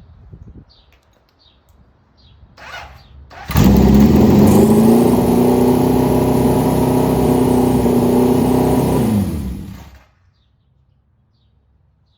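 Motorcycle engine starting suddenly about three and a half seconds in and running steadily, then shut off, its pitch falling as it winds down to a stop near the end. Faint bird chirps before it starts.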